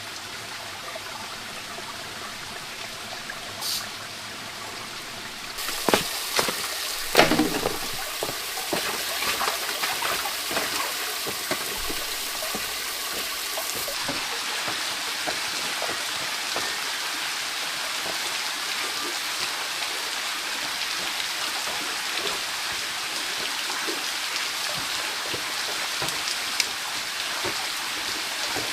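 Steady hiss of rain and running water, growing louder about six seconds in, with a few knocks between about six and eight seconds.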